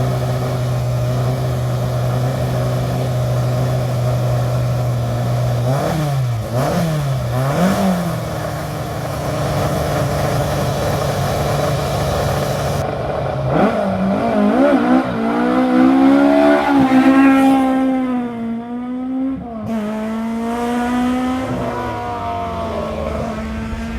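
Rally car engine holding steady revs, then blipped up and down twice a few seconds in. Past the halfway mark it accelerates hard, the revs climbing and dropping back at gear changes.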